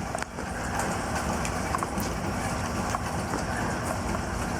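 Light rain sprinkling: a steady hiss with scattered faint drip ticks, over a low steady hum.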